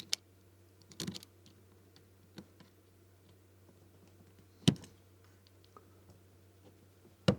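Scattered small clicks and knocks of lock parts being handled and pressed into place, with one sharper knock about four and a half seconds in, over a faint steady low hum.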